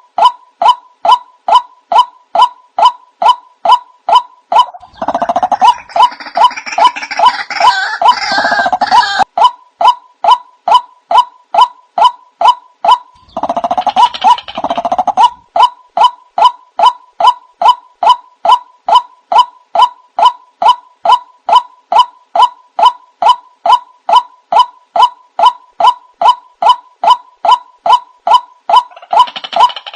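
White-breasted waterhen (ruak-ruak) calls played as a bird lure: a short note repeated steadily about twice a second, broken twice by louder, harsher bouts of calling, about five seconds in and again near the middle.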